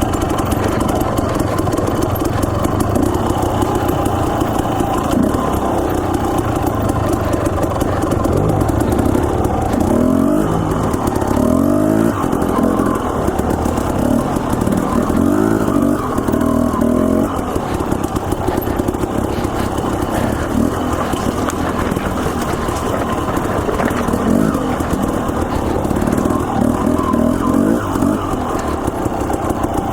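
Dirt bike engine running under way on a trail, its pitch rising and falling again and again with short bursts of throttle.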